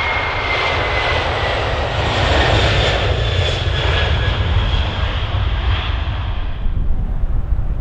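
Jet airliner passing by, its engines giving a loud whine with tones that slowly fall in pitch. The whine fades out about seven seconds in, leaving a low rumble.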